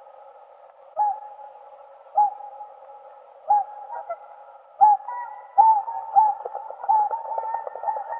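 Whooper swans calling: short pitched calls about once every second and a quarter, then coming faster and overlapping from about halfway through.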